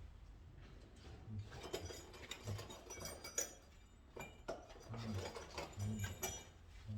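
Scattered light clicks, clinks and small knocks of hand tools and small metal parts being handled during electrical wiring work, with soft low thumps about once a second.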